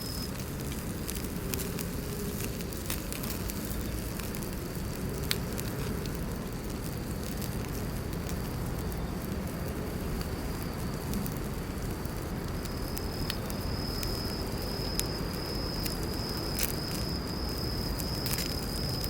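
Fire burning in a small camping fire stand, crackling with scattered sharp pops, under a steady high insect trill that drops away midway and comes back strongly near the end.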